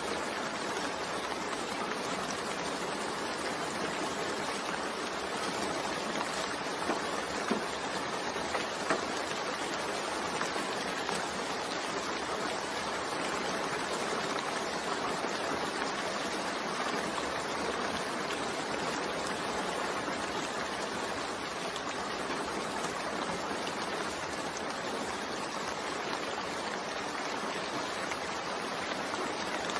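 Steady rain with a few louder drops about seven to eleven seconds in.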